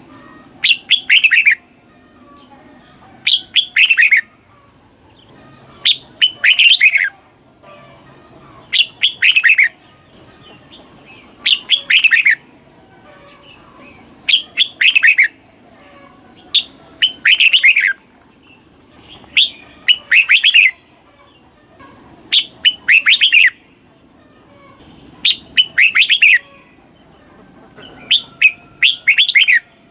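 Red-whiskered bulbul singing. It repeats a loud, short phrase of several quick whistled notes about every three seconds, eleven times.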